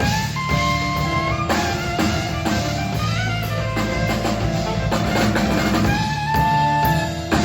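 Instrumental smooth jazz: a saxophone plays held melody notes over bass, a drum kit and guitar.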